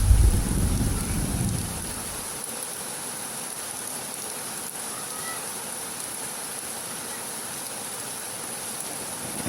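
Heavy rain falling as an even, steady hiss. A low rumble of thunder dies away over the first two seconds.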